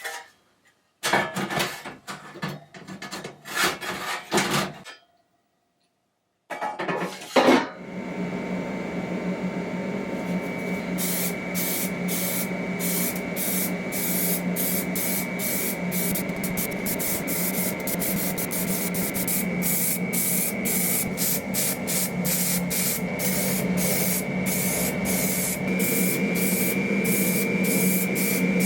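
Scraping and rubbing strokes for a few seconds, a brief pause, then an abrasive power tool running steadily with a held whine and rapid rubbing strokes over it, as in sanding or rust removal on a metal part.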